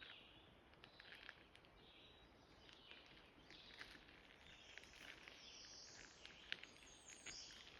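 Faint birdsong: scattered high chirps and trills, with a few light ticks, over a quiet outdoor background.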